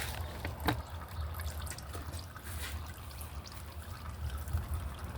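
Engine oil trickling and dripping from the oil filter mount of a 2019 Honda Accord 1.5 turbo after the old filter is removed, with scattered drips, one sharper about a second in.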